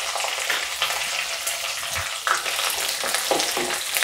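Small onions (shallots) sizzling in hot oil in a nonstick kadai, with a few short knocks of a wooden spatula stirring them against the pan.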